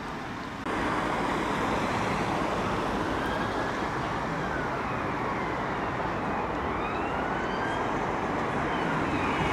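Emergency vehicle siren wailing faintly in slow rising and falling sweeps over steady traffic noise, growing louder near the end as it approaches. The traffic noise steps up abruptly about a second in.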